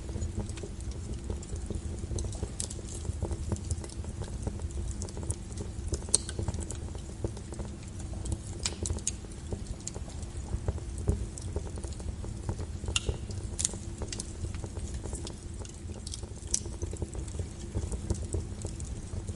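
Wood logs burning in a fireplace: a low steady rumble of the fire with irregular crackles and pops, the sharpest pop about six seconds in.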